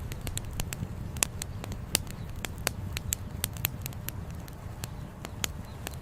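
Wood campfire crackling, with irregular sharp pops several times a second over a steady low rumble.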